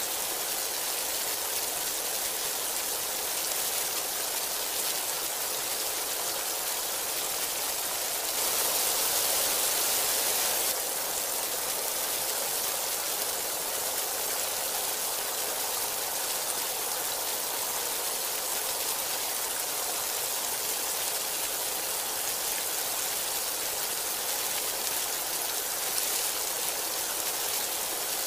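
Heavy rain falling as a steady, even hiss. It swells louder for about two seconds roughly a third of the way in.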